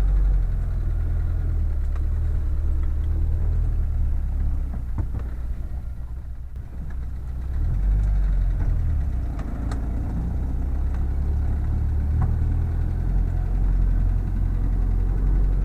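Boat motor running steadily, with a brief dip in level about six seconds in.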